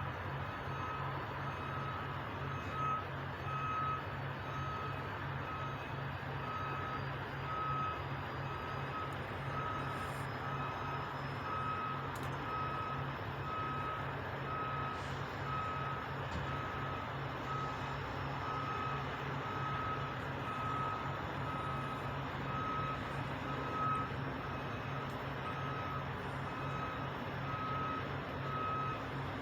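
Vehicle reversing alarm beeping steadily, about once a second, over a truck engine running with a low steady hum.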